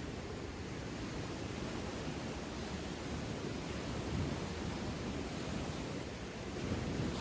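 Steady low rushing noise with no distinct events, rising a little about four seconds in and again near the end.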